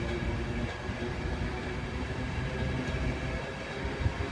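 A Virgin Trains East Coast InterCity 225 electric train running past, its Mark 4 coaches making a steady rumble of wheels on the rails with a few steady tones over it.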